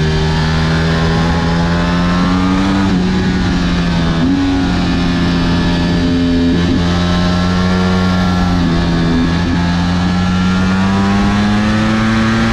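Ducati Panigale V4 sportbike's V4 engine under hard acceleration, its pitch climbing and dropping suddenly at each gear change, about three and four and a half seconds in, then climbing slowly again.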